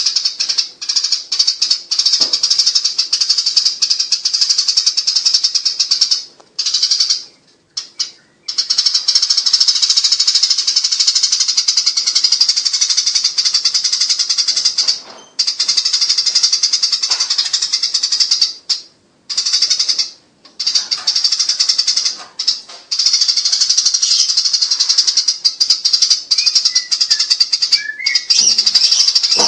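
Eurasian tree sparrows chattering during a fight: dense, rapid, shrill chirping that runs on almost without break, with a few short pauses.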